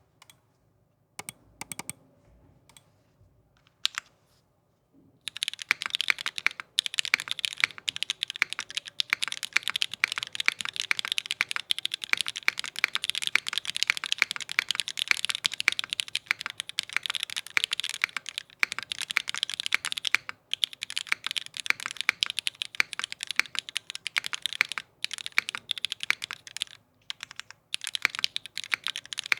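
Typing on an Alchemy AL.6 mechanical keyboard with vintage Cherry MX Black linear switches on an O-ring-mounted aluminium plate, fitted with GMK keycaps. A few scattered keystrokes, then fast continuous typing from about five seconds in.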